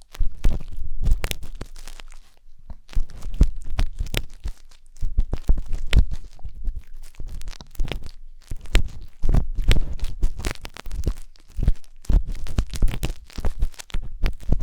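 Wooden skewer scraping and rubbing in the ear of a 3Dio binaural microphone: close, irregular crackling and scratching with soft low bumps, pausing briefly twice.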